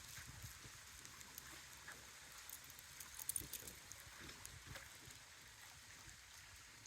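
Faint wind buffeting the microphone in low rumbles, with a few light ticks about halfway through.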